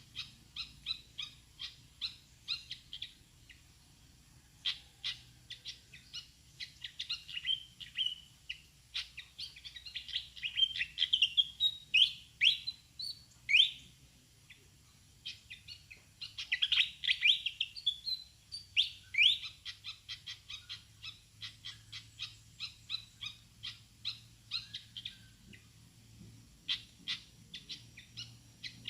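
Fantail calling: runs of short sharp chips, several a second, with a few louder squeaky rising sweeps in the middle and a brief lull about halfway through.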